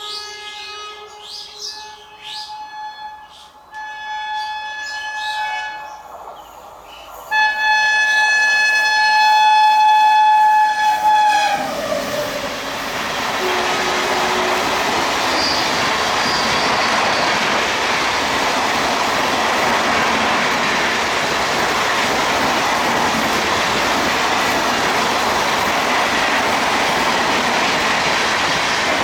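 An express train's locomotive horn sounds in several short blasts, then one long, loud blast that drops in pitch as the locomotive passes about eleven seconds in. After that comes the steady rush and clatter of the coaches going by at speed.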